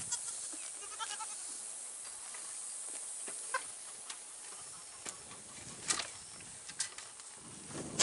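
A goat bleats briefly about a second in, and a few sharp clicks or knocks follow later, over a steady high hiss.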